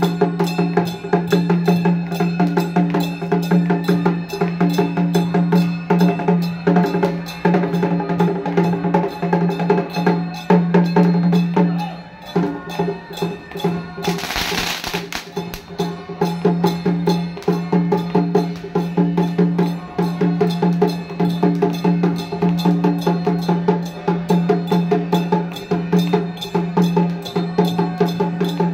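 Temple procession percussion: drums and rapid wooden clacking strikes over a steady held pitched tone, with a short hissing burst about halfway through.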